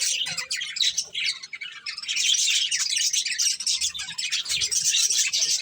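Budgerigars chattering: a dense, continuous run of short, high chirps and squawks, with a brief lull about a second and a half in.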